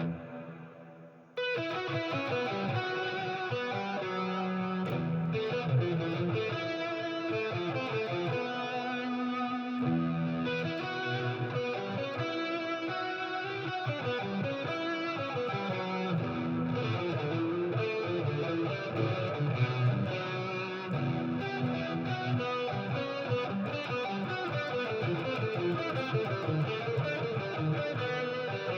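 Electric guitar played through a FREQ envelope filter pedal set to its envelope mode. A short pause, then continuous notes and chords start about a second and a half in.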